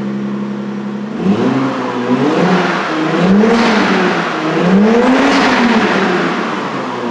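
Turbocharged Lexus RX300 V6 running through a newly made, quiet straight-through exhaust: idling steadily, then revved up and let fall back a few times from about a second in, before settling back to idle near the end.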